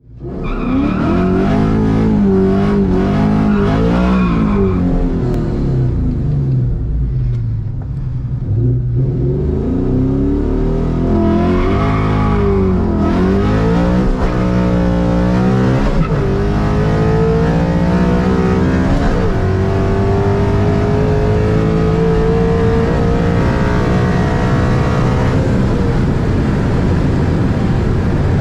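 Coyote 5.0 V8 in a 2003 Mustang Mach 1, heard from inside the cabin. The engine rises and falls in pitch for the first several seconds. From about nine seconds in it pulls hard through the gears, its pitch climbing and dropping at each upshift about three seconds apart, then climbing slowly and levelling off near the end.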